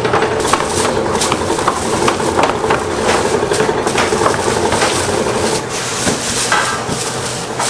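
Food-production kitchen machinery running with a steady hum, with frequent knocks and clatter throughout.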